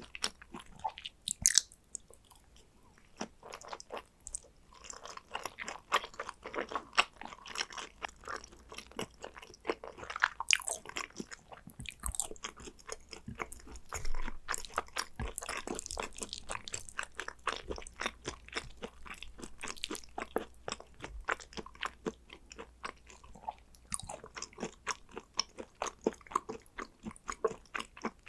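Close-miked chewing of raw Korean beef tartare (hanwoo yukhoe): a continuous run of small mouth clicks and smacks, a few louder than the rest.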